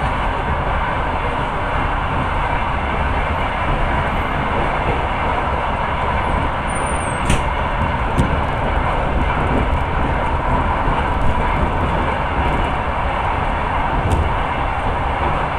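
Passenger train rolling steadily on the rails, a continuous rumble heard from inside the carriage, with a few sharp clicks, the loudest about seven seconds in.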